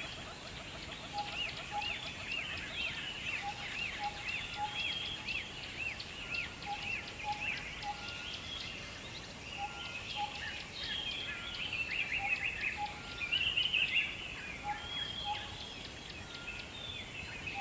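Songbirds calling: a run of quick arching chirps repeated about twice a second, with a lower short two-note call coming back every second or so. The chirping grows busier and louder about three-quarters of the way through.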